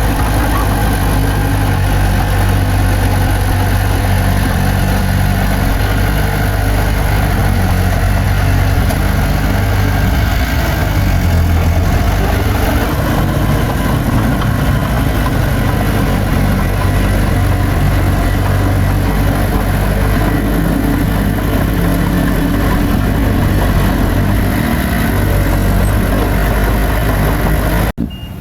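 Bulldozer's heavy diesel engine running steadily and loud. The sound drops away abruptly just before the end.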